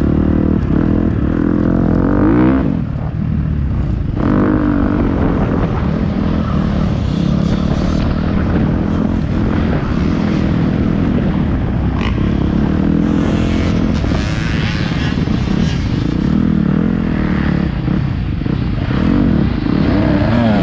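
Motocross bike engine running hard on the track, its pitch rising and falling as the throttle opens and closes. There is a brief drop in power about three seconds in.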